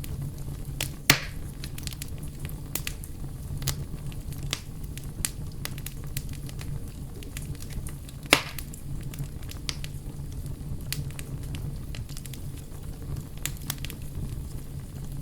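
Bonfire burning with scattered crackles over a steady low rumble. Two louder pops come, one about a second in and one a little past the middle.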